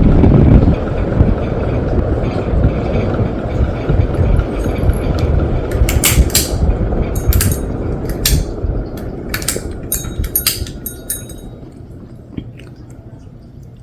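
Harbor Breeze Port Severn ceiling fan running with 42-inch blades: a low rush of moving air that fades gradually, with a scattering of sharp clicks in the middle.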